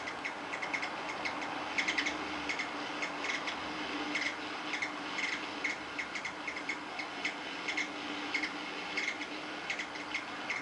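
Small birds chirping, short chirps coming irregularly several times a second, over a faint steady hum.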